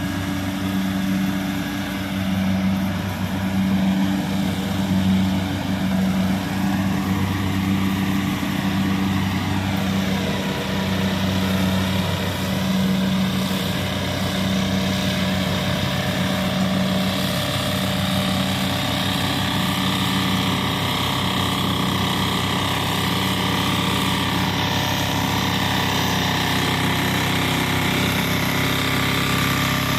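Kubota rice combine harvester's diesel engine running with a steady drone that pulses evenly through the first half and evens out later.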